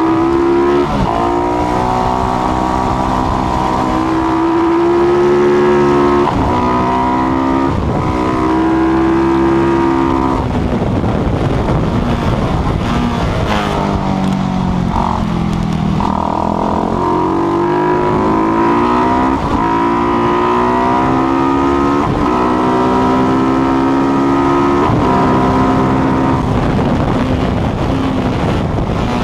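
A single-cylinder Supermono racing motorcycle engine built on a KTM 690 motor, at racing speed. It revs up with each gear and the pitch drops sharply at each quick shift. In the middle the pitch falls away into a rougher stretch while it slows, then climbs through the gears again.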